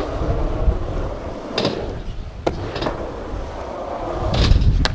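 Strong wind buffeting the camera microphone, a low rumbling roar that swells near the end. A few short sharp knocks are heard over it.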